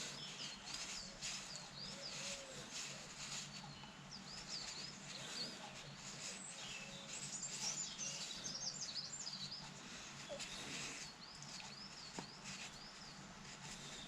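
A small bird singing: a run of quick, repeated high chirps through the whole stretch. Under it is a faint steady low hum, with a few light clicks.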